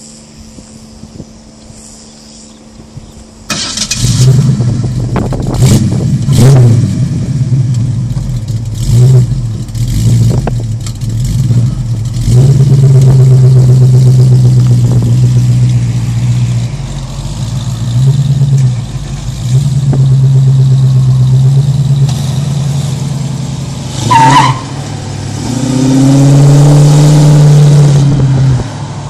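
Ford Mustang Boss 302 replica's V8 starting about three and a half seconds in, then blipped several times and held at raised revs in long stretches. Near the end there is a brief tyre squeal, then the engine revs up loudly as the car accelerates away, stopping just before the end.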